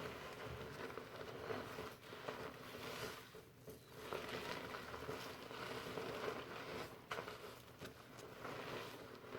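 Fingers scrunching shampoo lather through hair: a soft, crackly rustling of foam, easing off briefly about three and a half seconds in.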